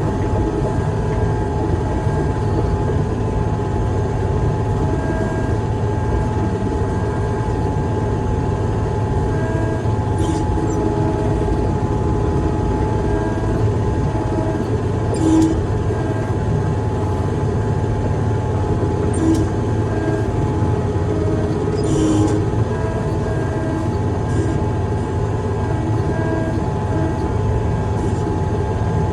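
Heavy machine's engine running steadily under a continuous low rumble and a steady whine, with a few short sharp noises about ten, fifteen, nineteen and twenty-two seconds in.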